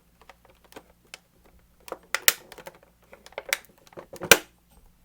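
Irregular sharp clicks and taps from a skincare product's box and plastic bottle being handled, the loudest about two seconds in and again near the end.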